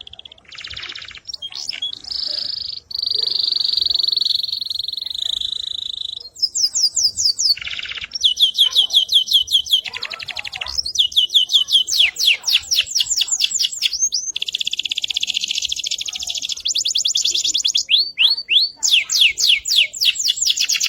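Canary singing a long unbroken song: an early held buzzing note, then one fast trill after another of rapidly repeated notes, some sweeping down in pitch.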